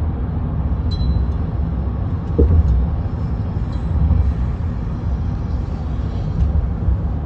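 Steady low rumble of road and engine noise inside a moving car, with a brief bump about two and a half seconds in.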